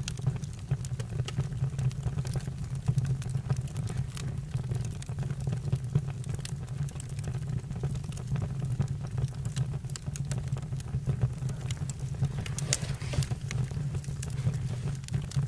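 Campfire crackling: irregular sharp snaps and pops over a steady low rumble, with a short burst of denser crackling about thirteen seconds in.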